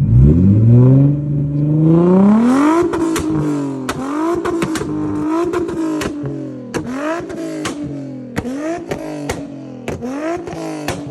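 Tuned Nissan 350Z V6 exhaust revving up hard, then held high and bouncing with a string of sharp pops and bangs from its flame-map tune, about two a second.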